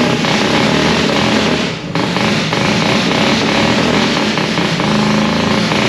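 Mazda 13B rotary engine running loudly, with a brief dip about two seconds in. It sounds as if it is firing on only one rotor, which the owner thinks could be a coil or plug fault.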